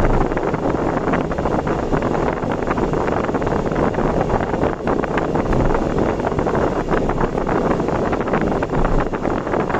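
Steady road and wind noise from a vehicle driving at speed on an expressway, with wind buffeting the microphone.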